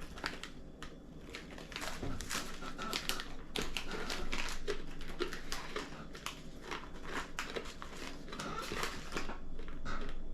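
Irregular crackling and clicking from a snack packet of onion-and-sour-cream coated peanuts being handled and the crunchy nuts being eaten.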